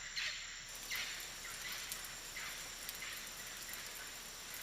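Steady hiss of rain falling on rainforest foliage.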